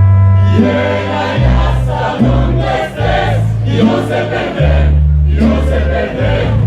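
Mariachi band performing live, with several voices singing together over the band and a deep bass line in held notes that change about every second.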